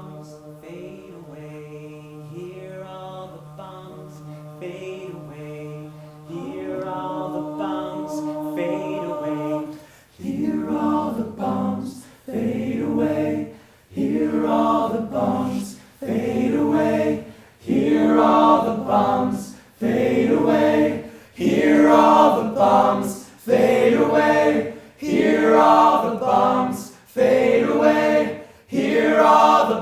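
A group of voices singing, a cappella-like, with many voices layered on the song's repeated closing refrain. For about ten seconds they hold soft sustained notes, then louder phrases swell and break about once every second and a half.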